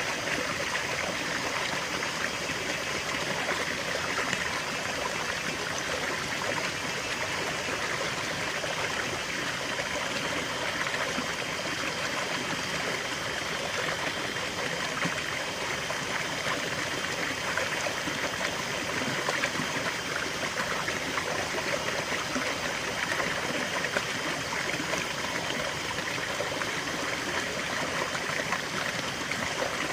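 River water flowing over stones, a steady rushing and trickling without a break.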